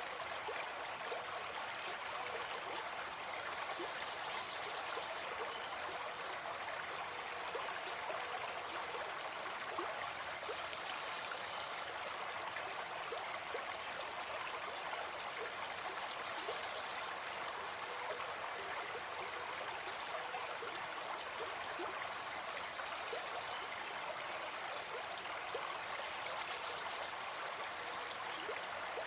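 A gentle forest stream flowing steadily, its running water making an even, unbroken rush.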